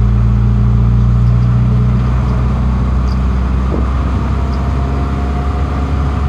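Motor vehicle on the move: a steady low engine hum with road noise.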